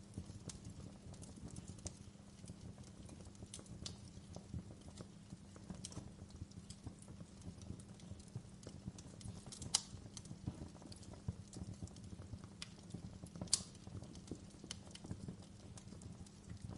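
Wood fire crackling in a fireplace: a steady low rumble of burning logs with scattered small snaps, and two louder pops about ten and thirteen and a half seconds in.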